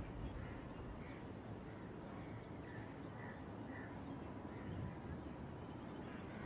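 A bird calling over and over, short faint calls about twice a second, over a low distant rumble.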